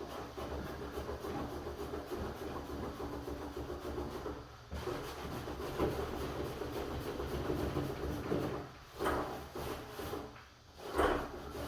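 Enamel paint being applied to a wooden door in repeated rubbing strokes, with a few short pauses.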